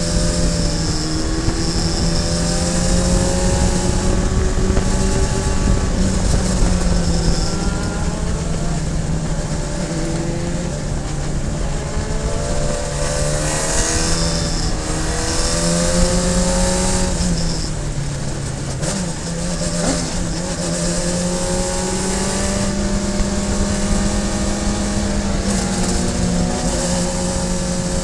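Radical SR3 sports car's engine at racing speed, its note climbing and dropping again and again as it is driven through the gears on the track.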